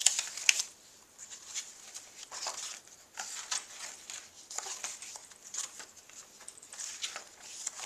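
Paper pages of a handmade junk journal being turned and handled: a run of short, papery rustles.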